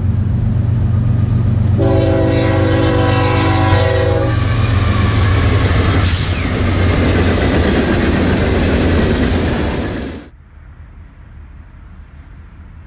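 Union Pacific diesel freight locomotives passing close by, engines running loud over the rumble of wheels on rail. Their multi-chime air horn sounds one long chord of about two and a half seconds near the start. The sound cuts off suddenly about ten seconds in, leaving only a faint distant rumble.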